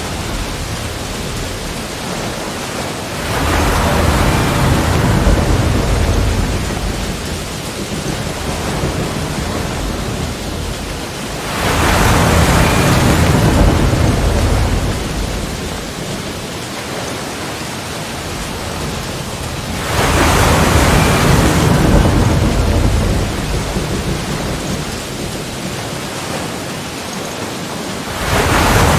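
Sea waves breaking against rocks: four waves crash about every eight seconds, each a sudden surge of rushing water that fades back into a steady wash of surf.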